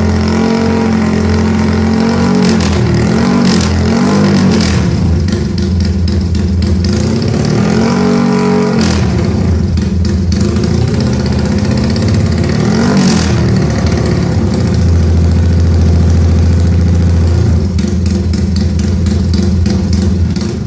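A modified Yamaha Y15ZR's single-cylinder engine running loud through an aftermarket exhaust and being revved repeatedly, its pitch rising and falling in blips every few seconds between stretches of steady running.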